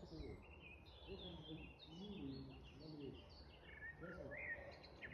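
Nightingales singing faintly, a run of varied short whistles, chirps and trills, with people talking in the distance underneath.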